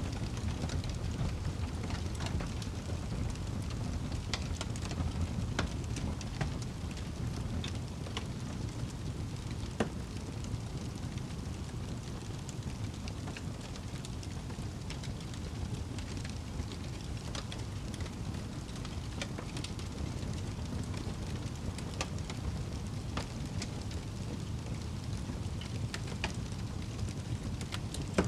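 Wood fire crackling in a fireplace: irregular sharp pops and crackles over a steady low rumble, with one louder pop about ten seconds in.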